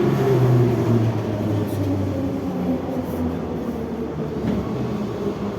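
Moscow Metro 81-717/714 train running, heard from inside the car. A low hum drops in pitch over the first two seconds as the train slows, with steady rumbling running noise underneath.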